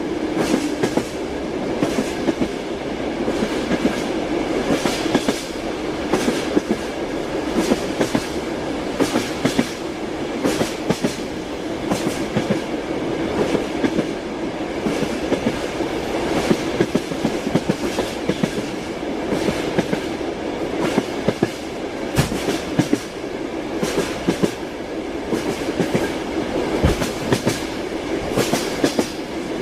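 Train wheels running on the rails inside a moving railway carriage: a steady rumble with a quick, uneven run of clicks as the wheels cross rail joints.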